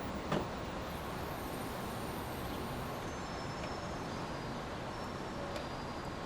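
Steady brown noise, an even rushing hiss at a constant level, with one brief click about a third of a second in.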